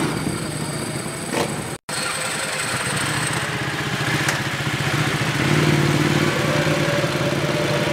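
Motorcycle engine running at low revs as a bike pulls away. The sound breaks off sharply about two seconds in, then a motorcycle engine runs steadily at idle and gets a little louder past the middle.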